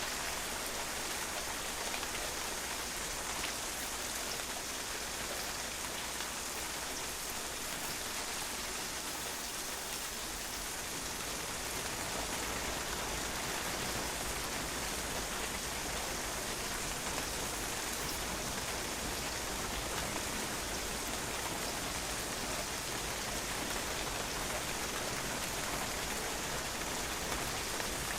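Steady rain falling, the drops pattering on a patio in a dense, even hiss with fine individual drop ticks.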